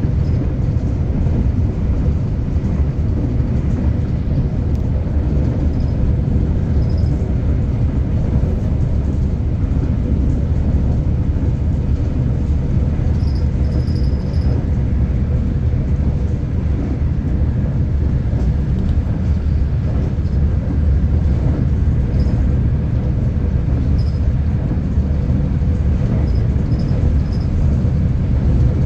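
Steady low rumble of a V/Line passenger train running along the track, heard from on board, with a faint steady hum and a few brief faint high squeaks.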